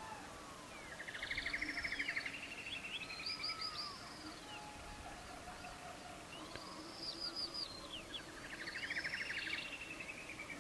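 Birds singing, in two similar phrases of quick chirps and fast trills, one about a second in and the other about seven seconds in.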